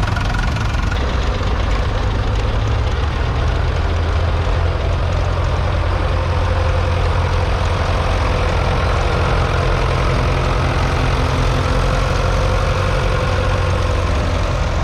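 Diesel tractor engines idling steadily: the twin Fordson Super Major four-cylinder diesels of a 1963 Doe Triple D articulated 4WD tractor.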